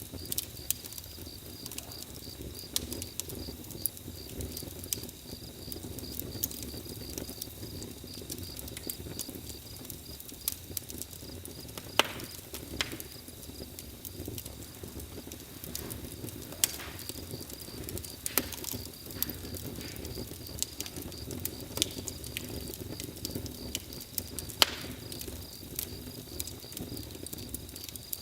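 Campfire crackling: irregular sharp pops and snaps of burning wood over a steady low rumble of the flames, a few pops standing out louder than the rest.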